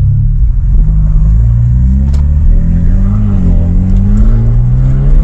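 Straight-piped, Stage 2 tuned BMW F30 328i's turbocharged four-cylinder running loud at low revs, its exhaust note rising and falling gently under light throttle, with a single click about two seconds in.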